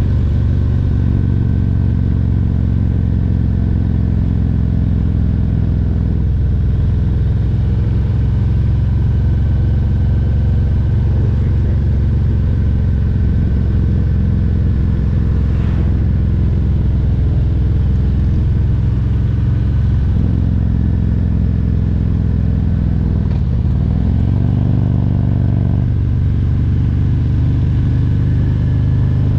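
Harley-Davidson Road Glide Special's Milwaukee-Eight 114 V-twin running under way at a steady cruise. Its note shifts in pitch a few times, dipping and then climbing again about three-quarters of the way through.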